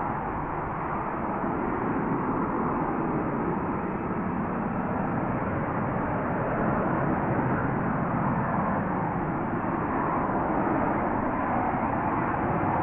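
Steady jet engine noise from an F-35B Lightning's F135 engine, growing a little louder over the last few seconds.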